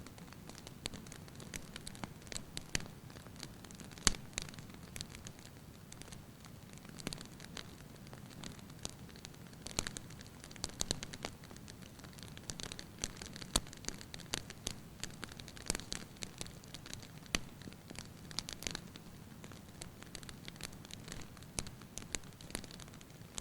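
Firewood burning in a fireplace, crackling lightly with irregular sharp pops over a low steady rush of flame; the loudest pop comes about four seconds in.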